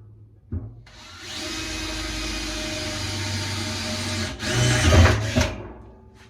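Electric drill boring into soft metal with a 5 mm bit, running steadily for about three and a half seconds, then a louder, rougher spell as it works the hole, before it stops. A short knock comes about half a second in.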